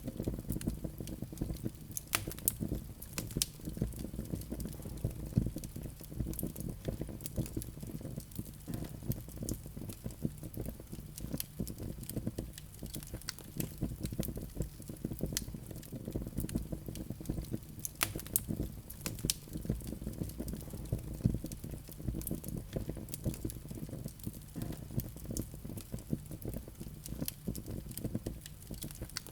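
Wood fire burning in a fireplace: a steady low rumble of flames with frequent sharp crackles and pops, a few of them louder.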